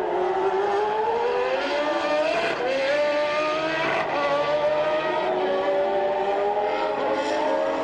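Formula One race car engines at high revs, their pitch climbing steadily as the cars accelerate, with a gear change about two and a half seconds in.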